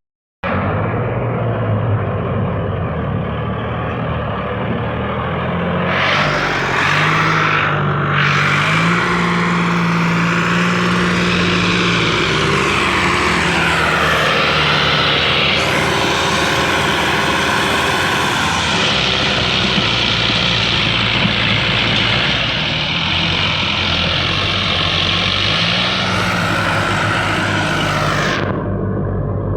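Diesel engines of two Sonalika tractors, a DI 750 and a DI 745, running hard under load in a tug-of-war. The engine pitch rises and falls several times.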